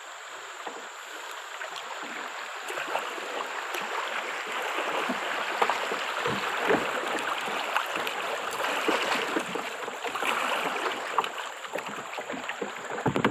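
Rushing, splashing water as a kayak runs through small river rapids among rocks, with scattered knocks and splashes through it.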